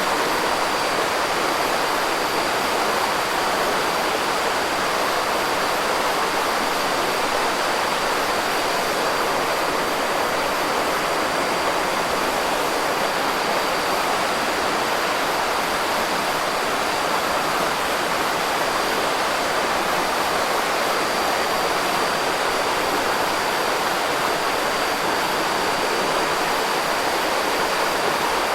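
Campfire burning with a steady, even rushing hiss, no distinct crackles or pops standing out. A faint thin high tone runs steadily beneath it.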